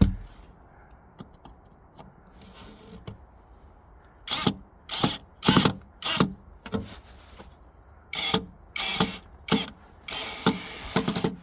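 A series of short, sharp knocks and clatters at irregular spacing as parts are handled and tapped into place during assembly. They start about four seconds in and come in a quick run near the end.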